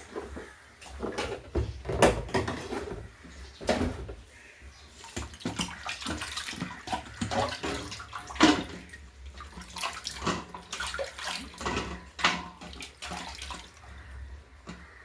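Water splashing and sloshing in irregular bursts, as when something is worked or washed in a container of water.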